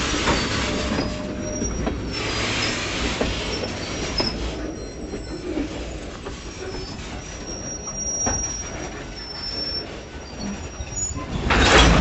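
Freight cars rolling slowly on jointed track, with faint high wheel squeal and scattered clanks. Near the end comes a loud crash of couplers as slack runs through the string of cars in a domino effect.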